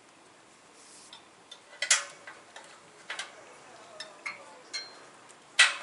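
Irregular clicks and knocks from ladder and tether gear being handled while a ladder is secured, with two louder clanks about two seconds in and near the end.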